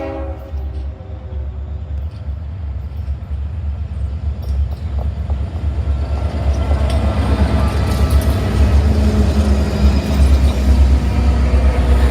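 Freight train's diesel locomotives approaching, a deep engine rumble growing steadily louder. The end of a horn blast cuts off right at the start.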